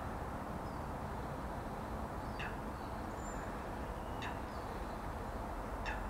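Short, sharp bird calls about every two seconds, three in all, with a few faint higher chirps, over a steady outdoor background of hiss and rumble.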